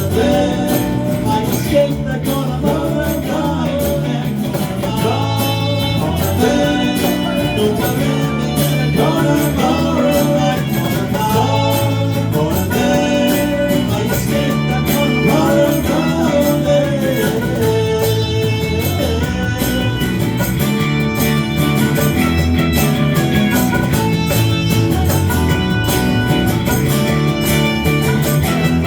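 A live band playing an instrumental passage with guitar to the fore.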